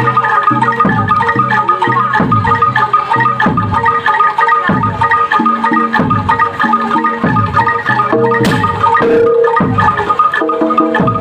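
Live gamelan-style music: metal mallet instruments ringing out a repeated pattern over a hand drum whose strokes drop in pitch, about one to two a second.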